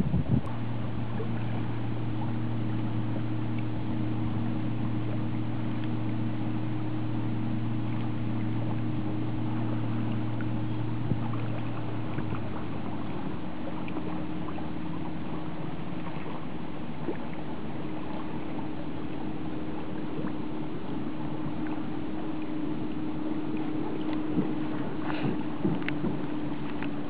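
Water and wind noise around a kayak on a lake, over a steady low engine hum from a boat; the deepest note of the hum drops out about halfway through.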